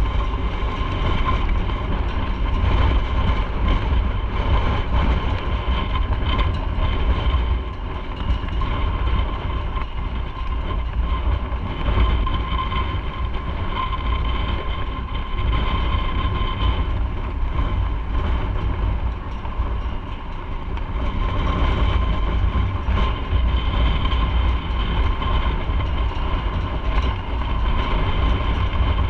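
Riding motorcycle: wind rushing over the microphone, with the engine running and a steady whine held over it.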